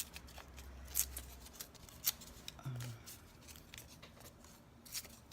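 Scissors snipping through paper collage pieces in a few separate, sharp cuts.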